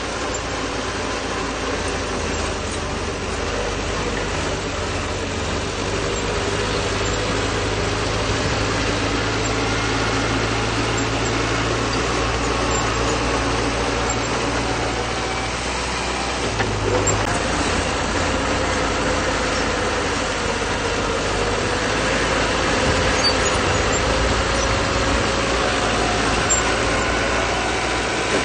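Bulldozer's diesel engine running steadily at work, its pitch drifting up and down a little.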